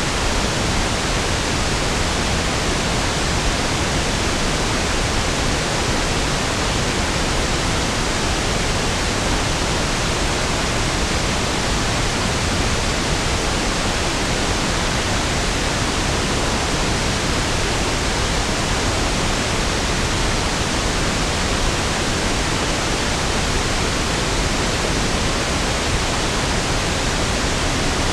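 Steady pink noise (1/f noise), an even, unchanging hiss with equal energy per octave, fuller in the low end than white noise.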